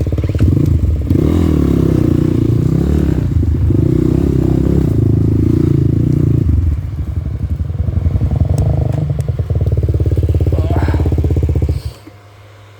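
Off-road motorcycle engine running loud and close, its revs rising and falling over the first six seconds. It then runs lower and steadier before cutting off suddenly near the end.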